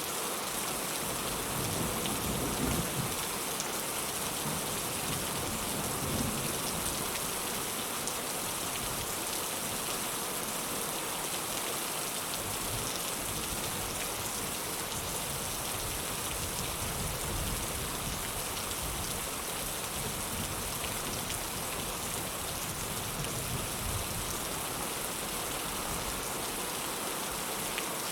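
Heavy rain falling steadily as an even hiss, with low rumbles of thunder a few times, the strongest near the start.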